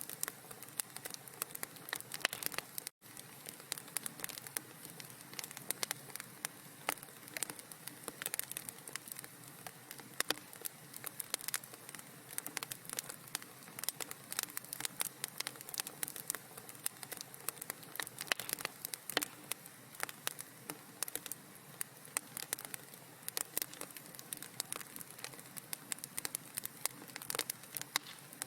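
Wood fire in a fireplace crackling steadily, with dense, irregular snaps and pops. The sound cuts out for a split second about three seconds in.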